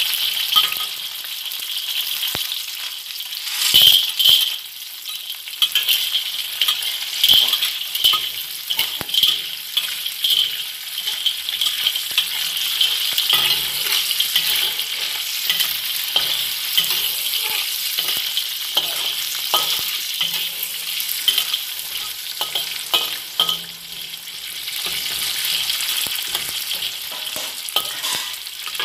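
Garlic, ginger and whole spices sizzling in hot oil in a wok, stirred with a spatula that scrapes and clicks against the pan again and again.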